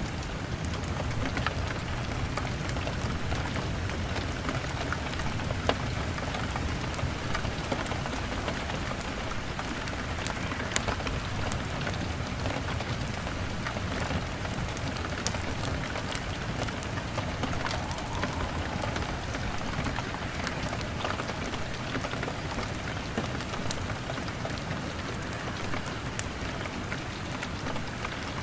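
Steady rain pattering on a window pane, mixed with a log fire crackling, heard as scattered sharp clicks over the even hiss.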